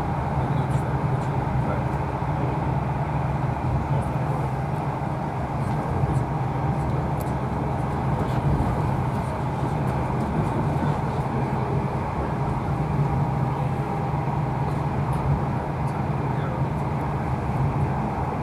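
Steady running noise heard aboard an InterCity 125 High Speed Train at speed: a constant low rumble with wheel-on-rail noise and faint scattered ticks.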